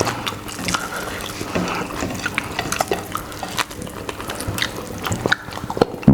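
Close-up eating sounds: wet mouth smacking and chewing of fried rice and chicken, with many quick clicks, as a man hurries to finish a plate. A sudden loud burp begins right at the end.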